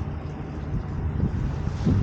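Wind buffeting the microphone: a low, gusty rumble that swells and eases.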